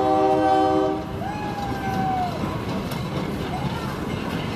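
Train horn sounding a held chord that stops about a second in, then the railway's passenger cars rolling past close by with a steady rumble and clatter of wheels.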